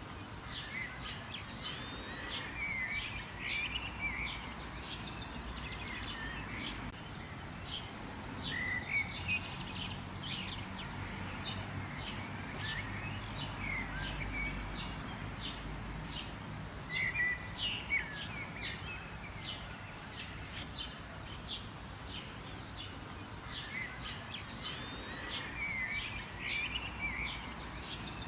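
Several small birds chirping and calling continuously, many short high notes and quick twitters with occasional louder trilled phrases, over a steady low background rumble.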